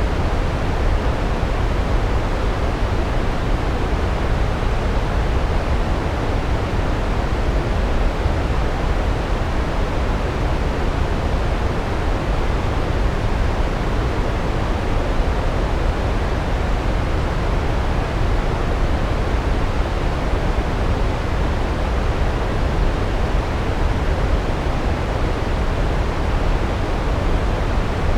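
Large waterfall, water falling in a steady, deep rush that does not change.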